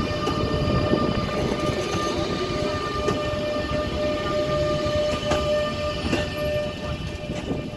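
EP20 electric locomotive hauling an express train as it pulls out: a steady, even-pitched electric whine over the rumble of the moving train, with a few sharp clicks of wheels over rail joints. It fades a little near the end as the train moves off.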